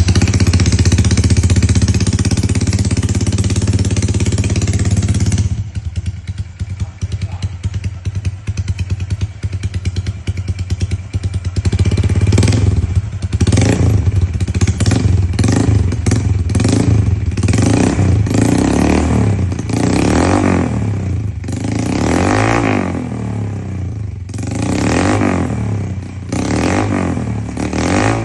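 Motorcycle running through an aftermarket kondoman racing exhaust with a drilled baffle. It is held at high revs for about five seconds, drops to a steady idle, then from about halfway is revved in a rapid series of short throttle blips, several of them longer rising-and-falling revs near the end.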